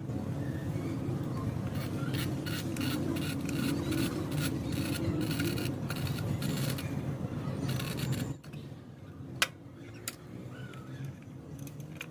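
Rapid rasping, scraping strokes, like a file worked on a workpiece, that stop abruptly about eight seconds in, followed by two light clicks.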